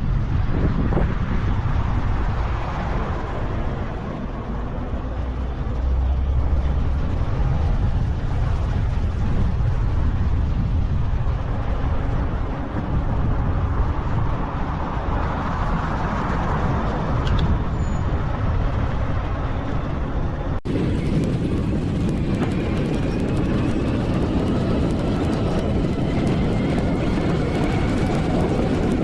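Wind rumbling on the microphone of a camera riding on a moving bicycle, over road and traffic noise. The sound changes abruptly about 20 seconds in, as if a new clip starts, and faint rising and falling whines follow.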